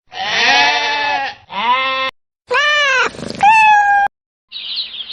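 Three loud bleats from a farm animal, each with a rising-then-falling pitch, the last one longer with a rough middle. A burst of high chirping starts near the end.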